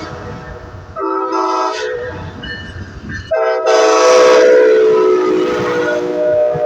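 Diesel locomotive's multi-chime air horn sounding a short blast, then a long, loud blast whose pitch sags slightly as the train passes, over the rumble of the train. It is the end of the long-long-short-long grade-crossing signal.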